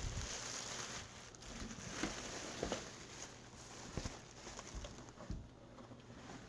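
Faint handling noise of unboxing an electric wax melter: a soft rustle of packaging near the start, then a few light knocks as the melter is moved about.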